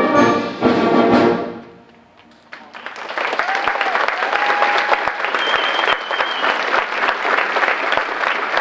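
School concert band holds a final brass-heavy chord that cuts off about a second and a half in. After a short pause the audience breaks into sustained applause, with a few whistles over it.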